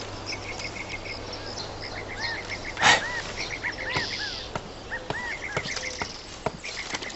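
Small birds chirping in quick runs of short, arched notes. There is a brief louder burst of noise about three seconds in.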